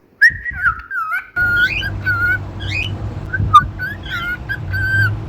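Cockatiel whistling a string of short notes that glide up and down, with brief high chirps between them, over a steady low hum.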